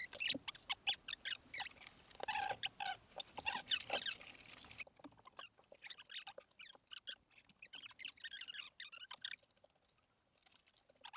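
Someone eating crunchy snacks: irregular crackly crunching, busy for about five seconds, then sparser and quieter.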